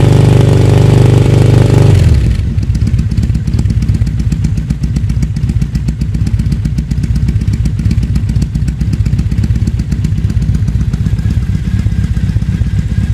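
Café racer motorcycle with a sport exhaust, engine held at raised revs, then dropping back to idle about two seconds in and idling with a rapid, even exhaust beat.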